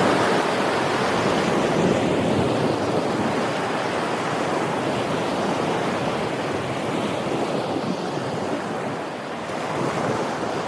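Ocean waves breaking and washing on the shore, a steady rushing surf that swells and eases slightly, with wind buffeting the microphone.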